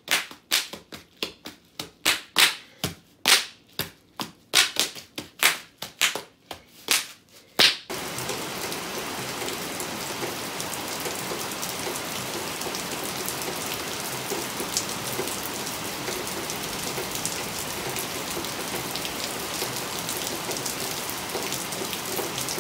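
A quick run of sharp smacks, about two a second, that stops suddenly about eight seconds in. Then steady, heavy rain falls.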